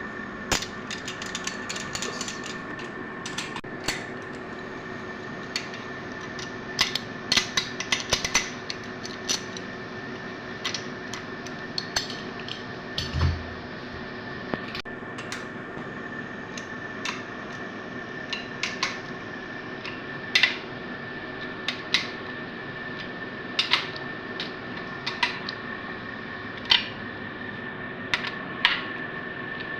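Hand tools and metal parts clinking and tapping at irregular intervals during assembly of a GMC 5.3 L LS engine, over a steady background hum. There is one dull low thump about halfway through.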